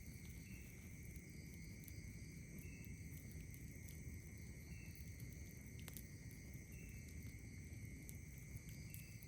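Night insects trilling steadily, with a short chirp repeating about every two seconds, over a low rumble and the sparse crackles and pops of a campfire. One pop, about six seconds in, is the loudest.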